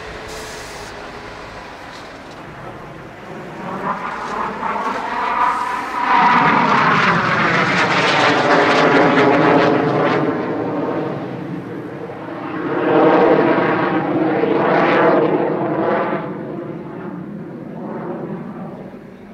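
BAe Hawk Mk 51 jet trainer's Rolls-Royce Turbomeca Adour turbofan in display flight. It swells from about three seconds in and is loudest for a few seconds, then rises again to a second peak before fading. The tone sweeps with a phasing effect as the jet passes.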